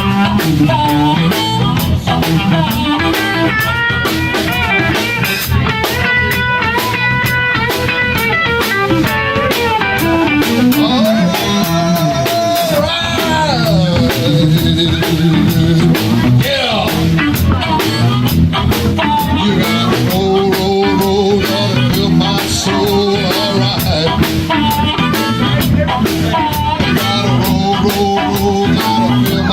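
Live blues band playing an instrumental break between sung verses: a guitar playing lead lines with bent notes over a drum kit keeping a steady beat.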